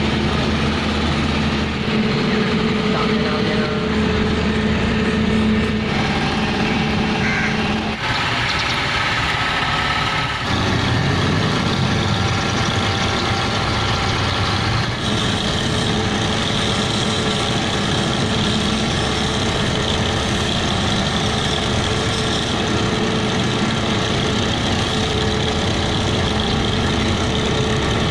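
Heavy diesel engine of a 200-ton remote-controlled boat hoist running steadily. Its note shifts a few times, about eight, ten and fifteen seconds in.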